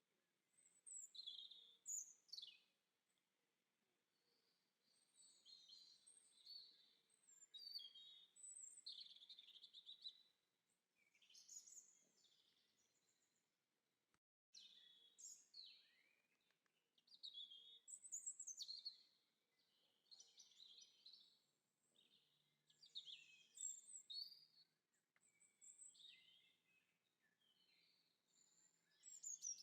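Quiet birdsong: songbirds chirping and trilling in short, high phrases one after another, with a brief gap of silence about fourteen seconds in.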